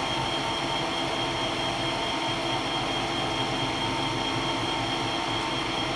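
Metal lathe running steadily while turning a diameter, a machine hum with a steady high whine over it.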